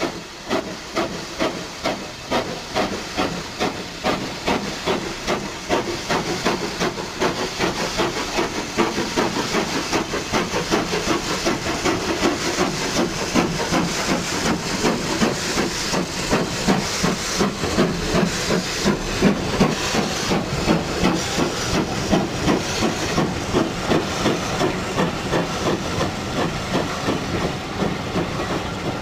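Steam locomotive working, its exhaust beats coming in a steady rhythm over a constant hiss of steam, growing louder towards the middle.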